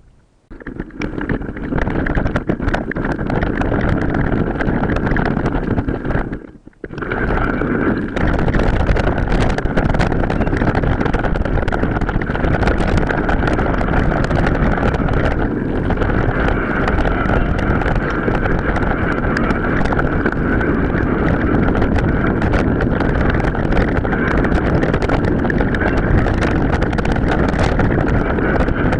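Wind buffeting the microphone over the rattle and crunch of a mountain bike riding over rough ground, with a brief drop out about six and a half seconds in.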